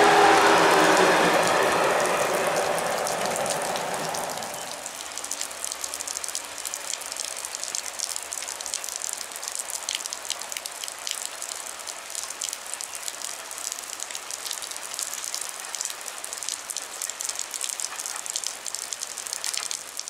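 A ČD class 854 diesel railcar passes and pulls away, its engine and wheels fading over the first few seconds with a falling whine. After that, rain patters steadily.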